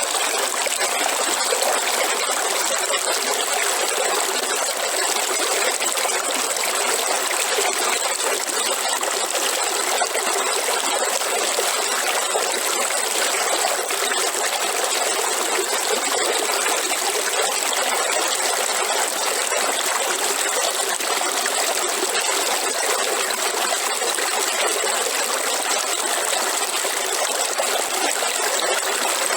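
River water running, a steady, even rushing noise that does not change, with little deep rumble in it.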